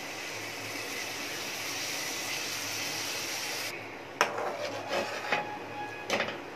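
Onion and coconut masala sizzling in hot oil in a pan as tomato paste goes in. The sizzle stops abruptly a little under four seconds in, followed by a few sharp knocks and scrapes of a spoon stirring against the pan.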